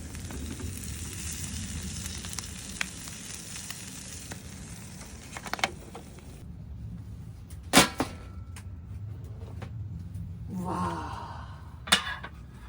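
Food sizzling in a hot pan, a steady hiss that stops about six and a half seconds in. Two sharp clacks follow, one after about eight seconds and one near the end, with a brief scrape between them.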